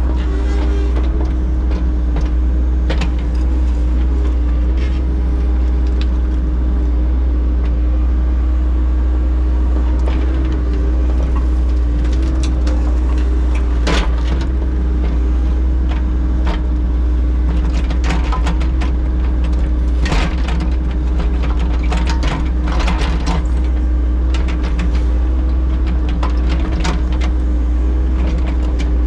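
Engine of heavy construction equipment running steadily at a constant speed, with scattered clicks and knocks over it.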